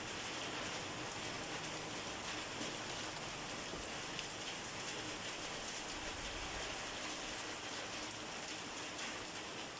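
Steady rain falling: a dense, even hiss with scattered faint ticks of individual drops.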